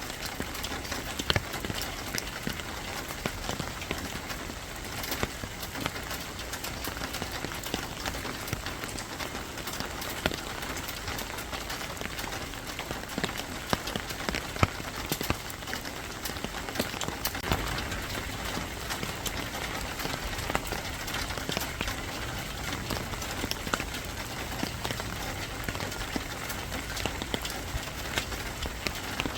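Steady rain falling on a hard surface, with many individual drops ticking sharply throughout.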